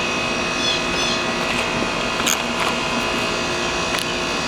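Steady machine hum made of several thin, constant tones, with a few light clicks, about two seconds in and near the end, from the ignition coils being handled.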